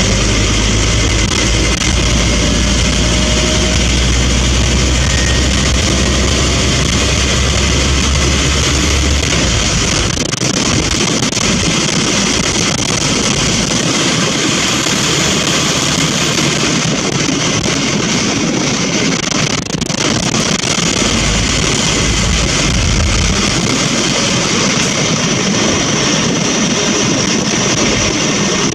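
Scania N230UB single-deck bus running on the road, its engine a steady drone under road and body noise. The deep engine rumble is strong for about the first nine seconds, eases off, then comes back for several seconds before falling away again.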